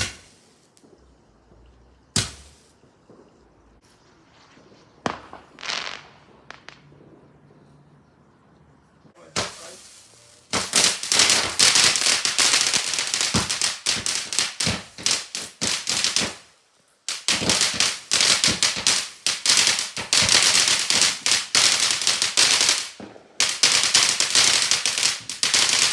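Fireworks: a few separate bangs, then long runs of dense, rapid crackling reports, like firecrackers or crackling fireworks going off, with two short breaks.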